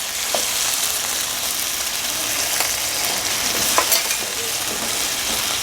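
Sauce and a splash of water sizzling steadily in a hot karai over high heat, with a few light clicks of a spatula stirring.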